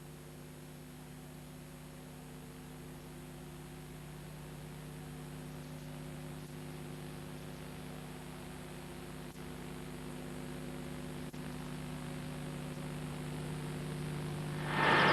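Steady electrical hum with hiss, slowly getting louder. Near the end it gives way abruptly to louder outdoor sound.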